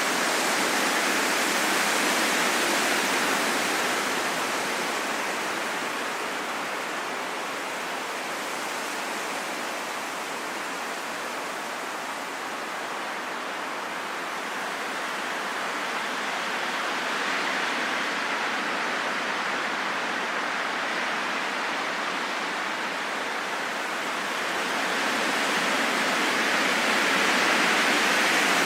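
Steady rain hiss in a forest, a dense even patter with no single drops standing out. It eases off somewhat in the middle and swells again near the end.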